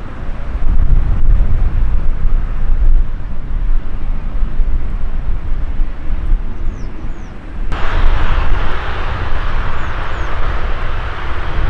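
Jet airliner engines heard outdoors as a deep, uneven rumble. About eight seconds in, the sound abruptly turns harsher and brighter. A few faint bird chirps come through above it.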